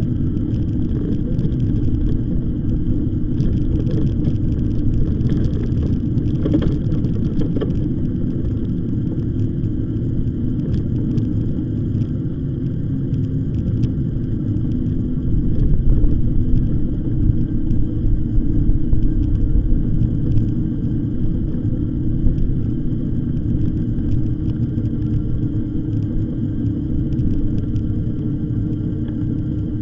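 Riding noise from an e-bike on the move: a steady low rumble of tyres and wind on the microphone, swelling for a few seconds around the middle.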